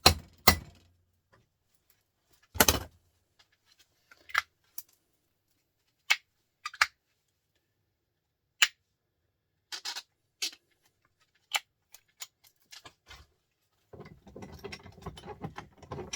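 Sharp metallic knocks and clinks from taking apart small printer motors: two quick knocks at the start and a louder one about three seconds in, then scattered single clicks of parts and tools being handled, and a busy clatter of small metal parts in the last two seconds.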